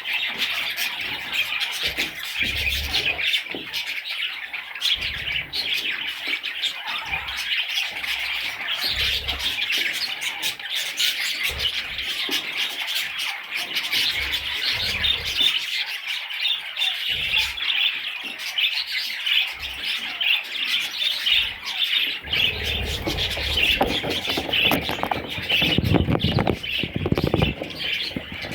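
Budgerigars chattering and chirping continuously in a dense warble. Scattered low thumps run under it, and about three quarters of the way in a louder, rougher rustling noise joins until near the end.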